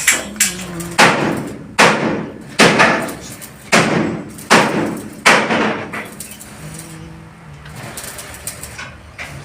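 Six sharp strikes on a hard object, each ringing briefly, in two evenly spaced groups of three, with two lighter knocks just before them.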